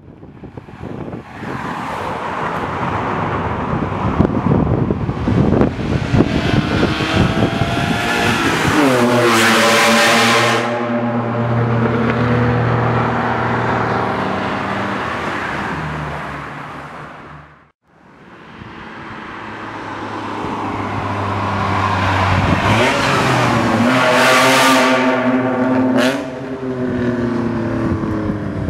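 BMW E36 328i straight-six through a replica Active Autowerke exhaust, twice building up loud and then falling away as the engine note drops. There is a sharp pop near the end: overrun popping that the owner puts down to idle control valve trouble causing bad fuelling.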